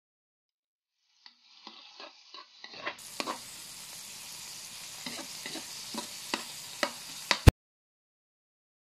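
Ground meat and onions frying in oil in a wok, stirred with a spatula that scrapes and taps the pan. Scattered scrapes come first, then a steady sizzle with regular strokes of the spatula, which cuts off suddenly after a loud knock.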